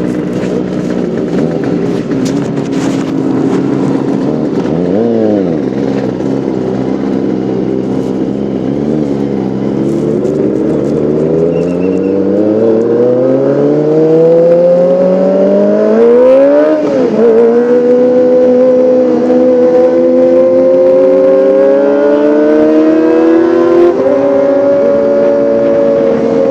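Kawasaki ZX-25R's 249 cc inline-four engine running and revving: a quick blip about five seconds in, then a long climb in pitch, a brief dip around seventeen seconds, and held at high revs after that.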